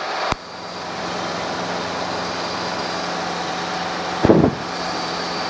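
Steady drone of a Robinson R22 helicopter's engine and rotor in cruise flight, a constant hum with a noisy wash over it. A sharp click comes just after the start, and a brief voice-like sound about four seconds in.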